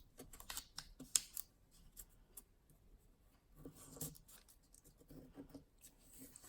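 A square sheet of origami paper being folded and creased by hand: crisp rustles and short sharp creasing strokes, busiest in the first second and a half and again about four seconds in.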